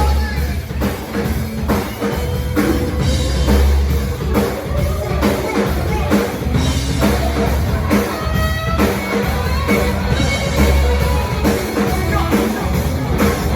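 Rock band playing live, with a drum kit keeping a steady beat under electric guitar and bass.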